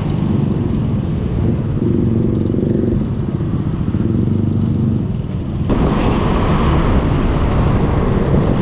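Road traffic heard from a moving bicycle: motor vehicle engines running close by, with a steady engine hum in the middle. A little over halfway through, wind noise on the microphone rises sharply.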